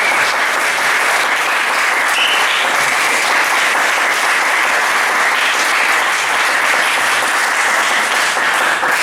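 Audience applauding steadily, dense clapping that fades away shortly after.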